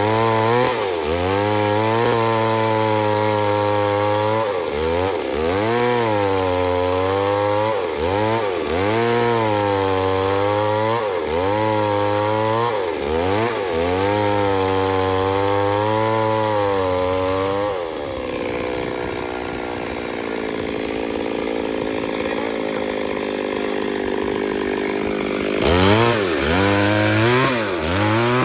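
Chainsaw cutting wood, its engine note repeatedly dipping under load and recovering every second or two. For about seven seconds in the latter half the engine holds a lower, steadier note, then it revs up and resumes the dipping pattern near the end.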